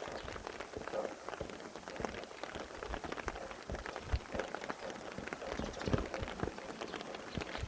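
Rain falling: a steady hiss with many separate drops striking irregularly close by.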